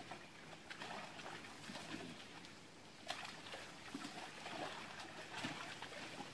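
Faint outdoor bush ambience with scattered, distant bird calls.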